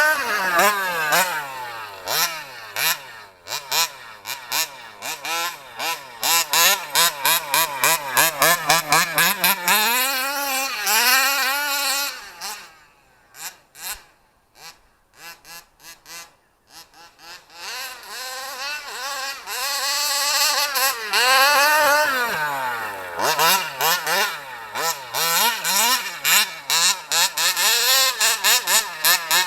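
Small 29cc two-stroke engine of an HPI Baja SS gas RC truck, revving up and down over and over. About halfway through it drops to a low idle for a few seconds, then revs hard again.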